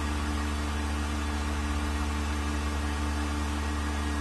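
Vacuum pump running steadily, a low even hum with a few steady tones, as it pulls a vacuum on an empty mixer chamber.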